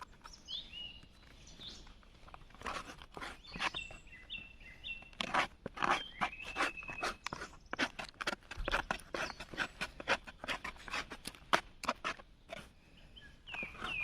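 A fast, irregular run of sharp cracks and snaps, densest in the middle, with a small bird chirping short high notes near the start, in the middle and near the end.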